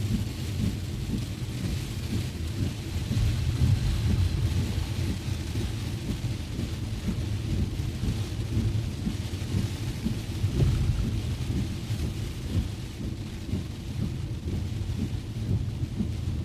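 Heavy rain on a moving car: a steady hiss of rain over a continuous low rumble.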